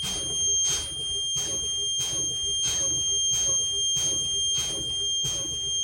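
Low-air-pressure warning buzzer of a Blue Bird school bus's air brakes sounding one steady high tone, a sign that system pressure has fallen below about 60 psi. Under it the brake pedal is pumped to fan off the air, each application letting out a short puff of air about every two-thirds of a second.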